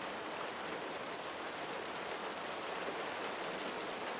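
Steady soft rain falling, an even hiss of many small drops with no thunder or other sounds.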